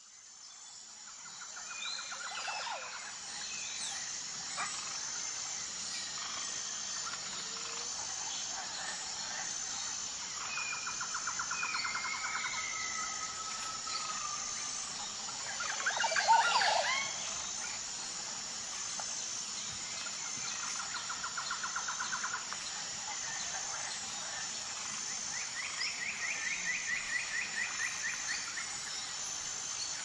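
Woodland birdsong: birds trill and whistle now and then over a steady high hiss. About sixteen seconds in comes a short, louder patch of splashing as a black-capped chickadee bathes in a shallow hanging bird bath.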